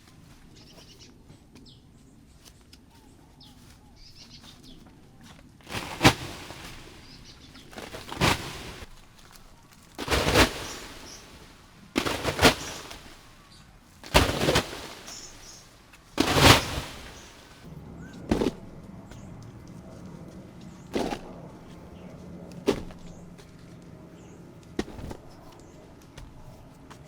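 A series of sharp strikes, about one every two seconds and loud for several blows, then lighter and further apart, like a tool hitting wood or earth.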